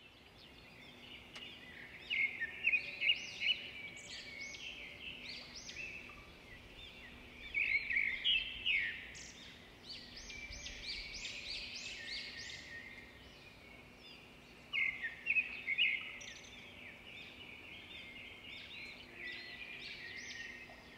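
Birds chirping: many short, quick calls, coming in louder bunches about two, eight and fifteen seconds in, over faint outdoor background noise.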